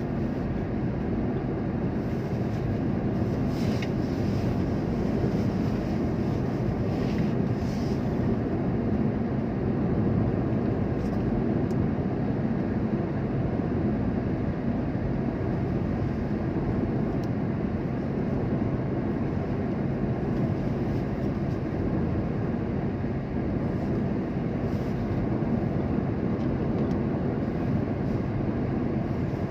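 Steady low rumble of a vehicle driving, level and unbroken.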